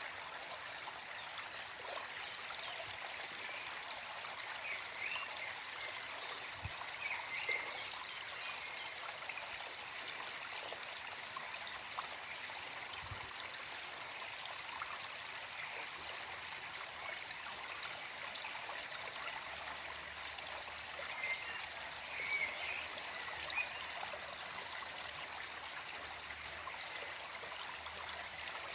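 Small forest stream flowing with a steady trickling babble, with birds chirping briefly a few times in the background.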